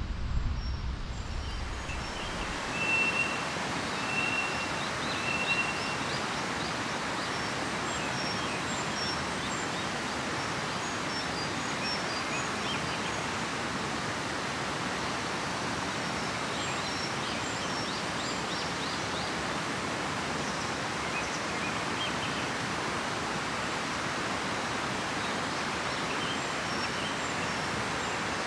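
A river flowing with a steady, even rush, and a bird calling three short notes a few seconds in, with fainter chirps later.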